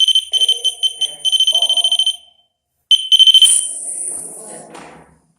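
REM pod alarm going off: a high electronic tone sounding in quick pulses for about two seconds, then breaking off, sounding again briefly near three seconds in, followed by a fading hiss.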